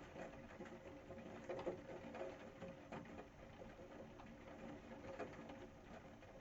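Rain falling, with irregular drops pattering and ticking close by.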